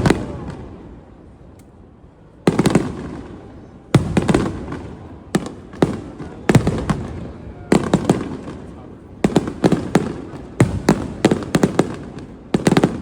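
Aerial firework shells bursting in a string of sharp bangs, each followed by a rolling, fading rumble. The bangs come every second or two at first and bunch into quick runs of several a second in the second half.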